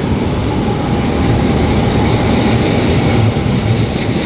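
A train running past along the platform with a steady, loud rumble.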